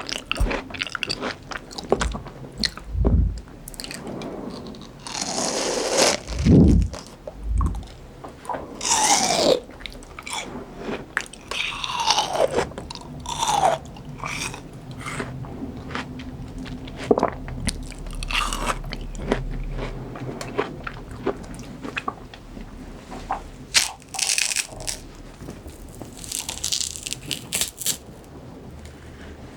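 Close-miked biting and chewing of crunchy fresh fruit: irregular crisp crunches, one after another.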